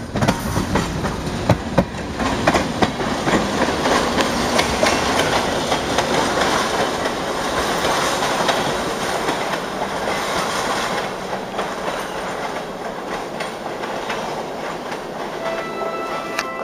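Short freight train on the Pioneer Valley Railroad rolling past: wheels clacking over the rail joints, sharpest in the first few seconds, over the steady running noise of the cars.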